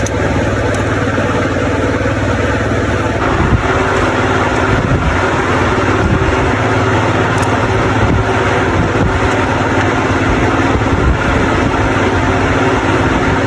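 Large electric fan running with a steady hum and rush of air. A few faint clicks from hand-tool work sound over it.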